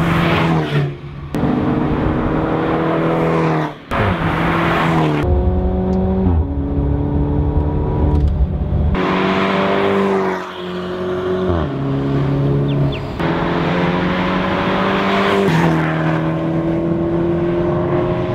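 A Mercedes-Benz GLC250 4Matic's four-cylinder engine, heard through an Armytrix valvetronic exhaust, accelerating through several gears. Its pitch climbs and then drops back at each upshift.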